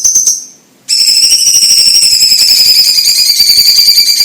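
Orange-bellied leafbird (cucak ijo cina) singing: a short rapid trill, a brief pause, then from about a second in a long unbroken high whistled trill.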